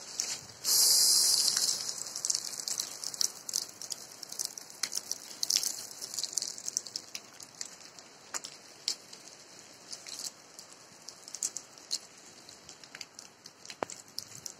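Rain falling and pattering on surfaces, with many irregular sharp drop hits over a steady hiss. A louder rush of noise comes about a second in and fades within a second.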